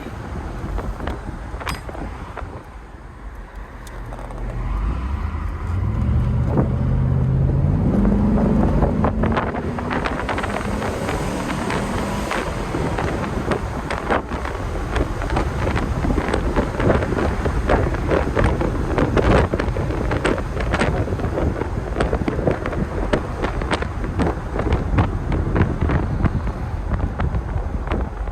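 Mercedes-Benz 560SL's V8 engine pulling away, its pitch rising for about five seconds, then the car cruising with steady road and wind noise buffeting the microphone.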